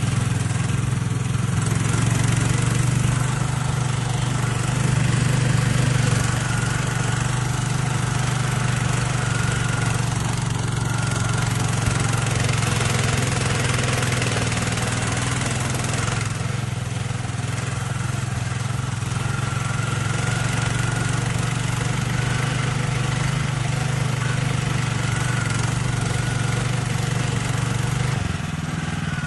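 A vehicle engine running steadily with a constant low drone, with no big changes in revs; it eases off slightly near the end.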